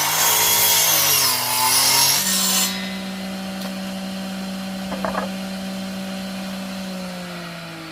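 Handheld electric power tool cutting, its motor whine dipping in pitch as it bites. A little under three seconds in the cutting noise stops and the motor runs on freely at a steady pitch, with a brief rattle about halfway through.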